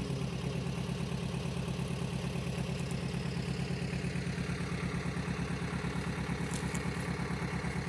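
An engine or motor running steadily at idle, a low drone with a fast, even pulse.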